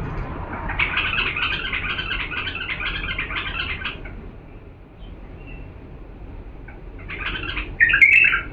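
Bulbul singing: a long warbling phrase of quick notes for about three seconds, then a pause, then two short loud phrases near the end.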